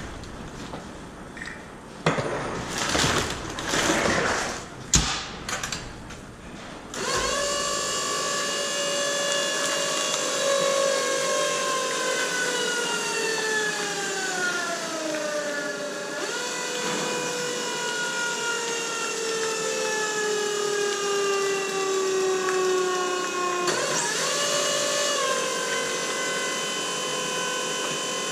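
Battery-powered drive motor of a mini PET bottle baler whining as it compresses plastic bottles, its pitch sinking slowly as the load builds, with a sudden dip and recovery about halfway through and a jump back up near the end; the battery is low, so it runs slower than it should. Before the motor starts, about seven seconds in, there are scattered crackles and knocks.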